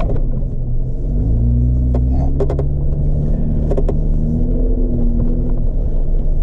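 Jeep engine running at low revs, its pitch drifting up and down, with a few short sharp knocks.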